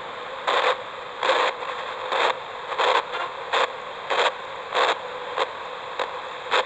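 Paranormal spirit box sweeping radio frequencies: a steady hiss broken by short bursts of static about every two-thirds of a second, with no clear voices coming through.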